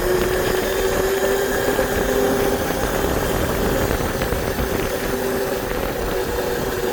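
Motorcycle engine running at a steady speed while riding, one even note that dips slightly near the middle.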